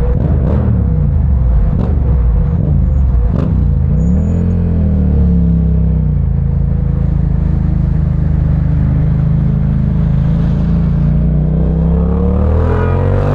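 Parallel-twin motorcycle engine running under the rider. The revs dip and pick up again a couple of times in the first few seconds, hold steady while cruising, then climb near the end as the bike accelerates.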